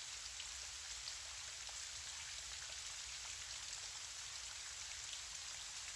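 Steady gentle rain falling, an even hiss with faint scattered drop ticks.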